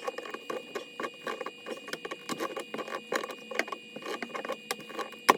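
Irregular small clicks and light knocks of plumbing fittings being handled and threaded together by hand, with a faint steady high tone underneath. A sharper knock comes near the end.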